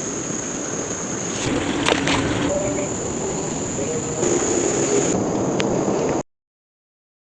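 Steady high-pitched insect trill over the rush of flowing river water, with a brief knock about two seconds in; the sound cuts off suddenly about six seconds in.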